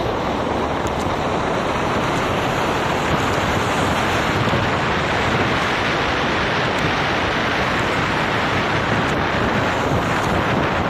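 Steady rushing noise of rain and tyres on a wet road, heard from a moving vehicle, with wind buffeting the microphone.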